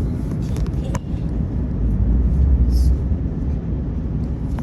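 Airliner cabin noise in flight: the steady low rumble of the engines and airflow, swelling a little about two seconds in, with a couple of light clicks about a second in.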